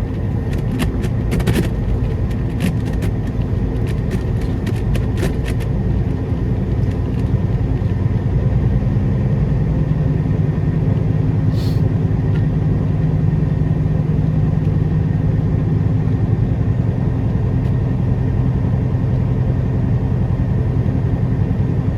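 Peterbilt 389 semi truck's diesel engine running steadily, with a series of sharp clicks and rattles in the first six seconds and the engine note strengthening from about nine seconds in.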